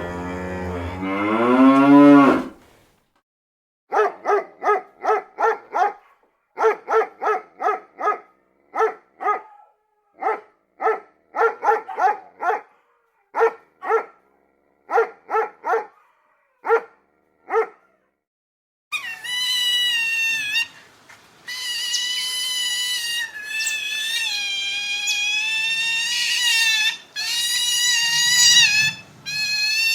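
Animal sound effects: a cow moos once, its pitch rising, then a long run of short pitched calls in quick groups, then a sustained high-pitched squealing call that breaks off several times.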